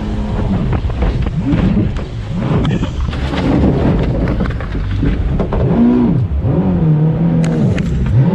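Boat engine revving up and dropping back several times, under heavy wind and water rumble.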